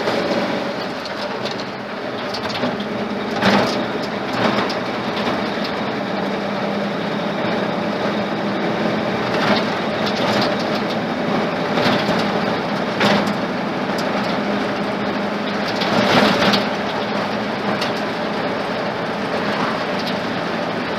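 Truck with a freshly swapped Ford flathead engine driving, heard from inside the cab: a steady engine and road drone with a handful of sharp rattles and knocks from the body.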